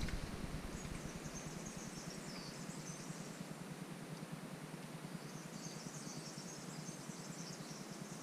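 Outdoor ambience: a steady quiet hiss with high chirping of small birds, around one to three seconds in and again from about five and a half seconds.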